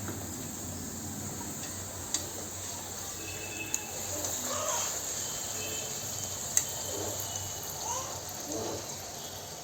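Puri deep-frying in hot oil on a low flame: a steady sizzle, with a few sharp clicks.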